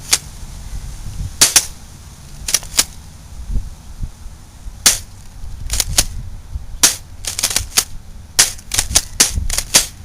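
Remington TAC-1 pump-action airsoft shotgun being worked and fired: a string of sharp clicks and clacks, mostly in pairs at first, coming faster and closer together in the last few seconds.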